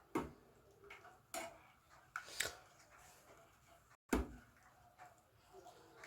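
A few separate knocks and clinks of kitchen utensils and cookware, the loudest just after the start and just past four seconds in.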